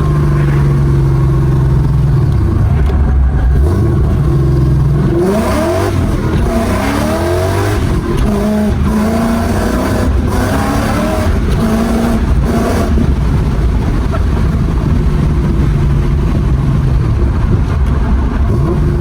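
Ford Mustang SVT 'Terminator' Cobra's supercharged V8 running steadily, then revved up several times in a row, its pitch rising and falling, before settling back to a steady run.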